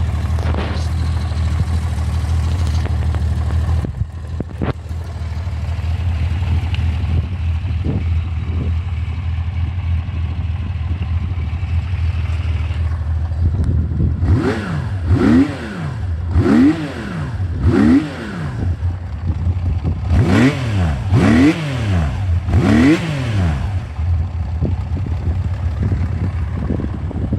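Honda CBX1000's air-cooled inline-six idling steadily, then blipped about six times from about halfway through, the revs rising quickly and dropping back to idle each time.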